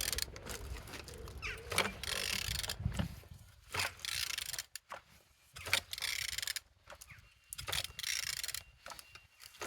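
Removed Volkswagen 1.6 TDI (CAYC) diesel engine being turned over by hand: a series of short mechanical rasps and clicks with brief pauses between strokes. It turns freely, with no sign of seizing.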